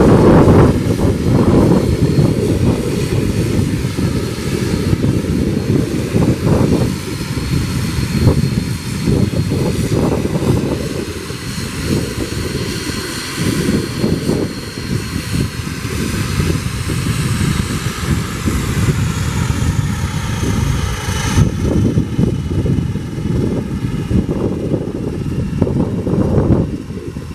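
ATR 72-600's turboprop engines running, a high whine that falls in pitch about two-thirds of the way through, under heavy wind rumble on the microphone.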